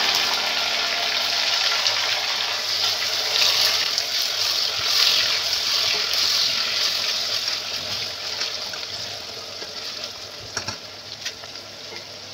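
Chopped tomatoes sizzling in hot oil with fried onions in a cooking pot, stirred with a spatula; the sizzle eases off over the last few seconds, with a few light knocks near the end.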